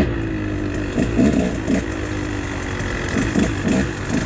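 KTM dirt bike engine running, with a few short throttle blips rising and falling over a steady low note.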